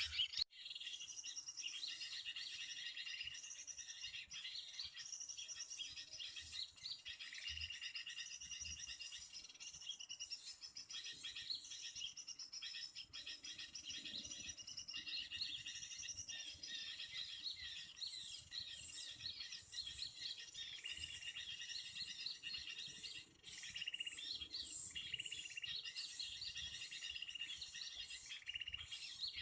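Small songbirds chirping and twittering rapidly and without pause, high in pitch, with a run of sharper, louder chirps in the last third.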